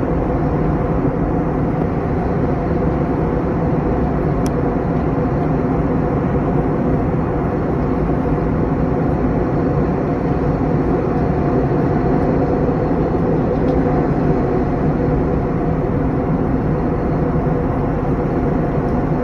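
Steady jet engine and airflow noise heard inside an airliner cabin, an even rushing with a low hum.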